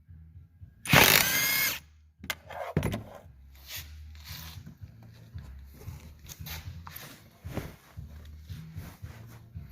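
A power tool runs in one short burst about a second in, rising in pitch, followed by scattered clicks and knocks.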